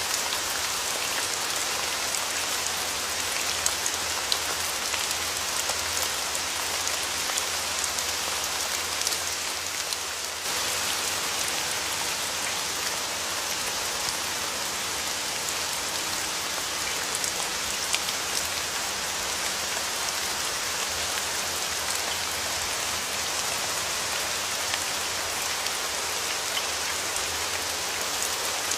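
Steady rain falling, with individual drops striking sharply here and there. About ten seconds in the sound dips slightly and then steps back up abruptly.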